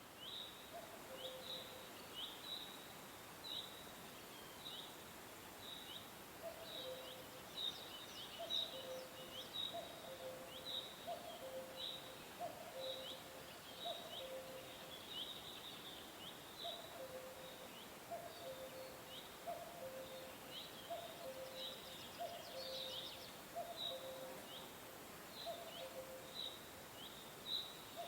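Birds chirping: short high chirps repeat about once a second over a lower two-note call that repeats steadily, with a few brief higher trills and a steady background hiss.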